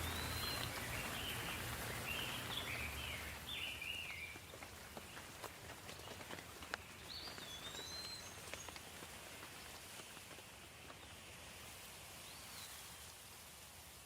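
Steady gentle rain with scattered individual drops. A bird chirps a quick run of notes during the first few seconds and again briefly about seven seconds in.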